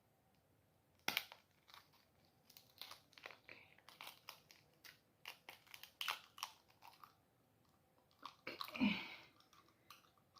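Close-miked chewing and crunching of food: a run of sharp bites and mouth clicks, with a longer, noisier stretch near the end.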